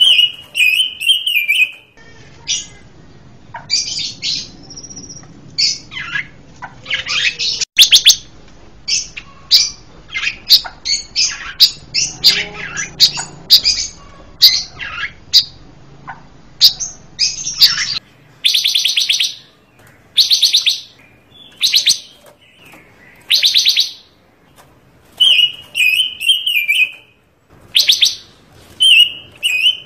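A 'panca warna' songbird singing loudly in varied phrases: quick runs of sharp chirping notes and trills, broken by short pauses, with a few longer warbling phrases at the start and near the end. The song is full of varied material ('gacor'), the kind used to train other birds or to lure wild ones.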